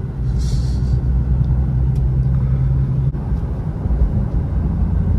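Cabin rumble of an Infiniti Q50 3.7 driving on a snowy road: a steady low drone of engine and tyres. A low hum in it stops about three seconds in.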